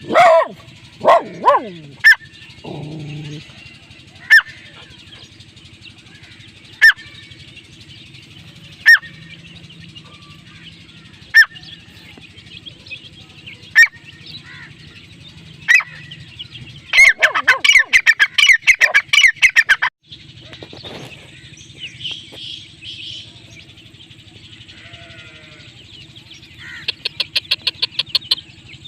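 Francolin (teetar) calling. Single sharp, loud notes come about every two and a half seconds, then break into a long run of fast repeated calls past the middle, with another quick run near the end.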